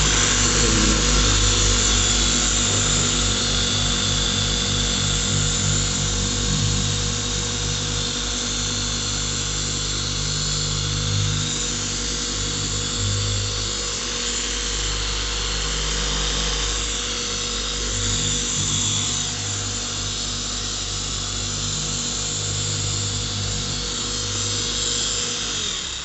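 Electric car polishing machine running continuously with a black finishing pad on the paint, the final polishing step toward a mirror finish. Its motor hum shifts a little in pitch and level as the load changes, and it stops near the end.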